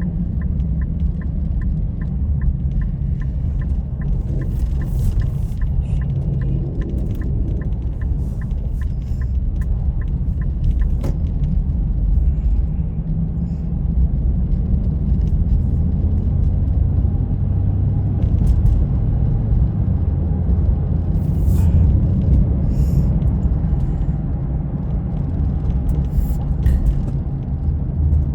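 Steady low rumble of a vehicle driving, with a regular light ticking about two and a half times a second that stops about ten seconds in.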